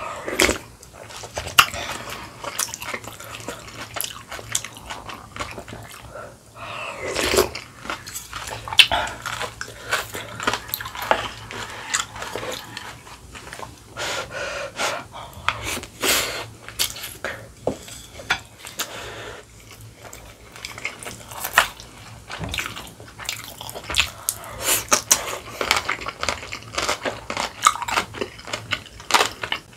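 Close-miked chewing of mouthfuls of food, with many quick crunches and clicks.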